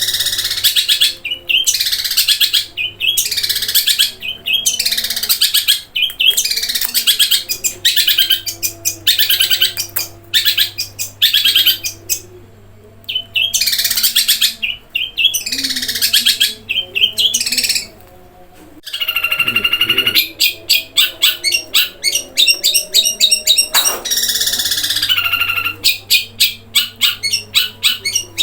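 Long-tailed shrike (cendet) singing in rapid, harsh chattering bursts, one after another about every second, its repertoire including house-sparrow-like chirps. The bursts break off briefly twice, and a longer, more even-pitched call comes a little past halfway.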